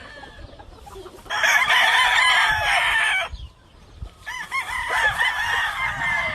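Gamefowl roosters crowing: one loud crow of about two seconds starting a little over a second in, then a second, somewhat quieter crow about a second after it ends.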